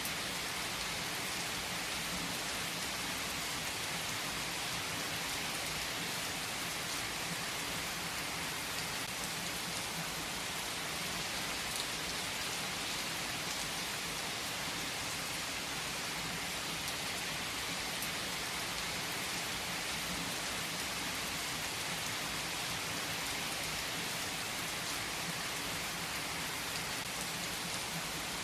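Steady rain falling on surfaces, an even hiss that holds at one level throughout, with scattered drops ticking through it.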